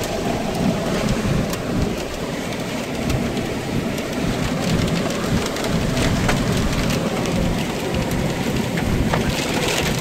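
Heavy wind-driven rain pelting a pickup truck's cab, heard from inside, over a steady low rumble of storm wind, with many scattered sharp ticks of drops striking the glass and body.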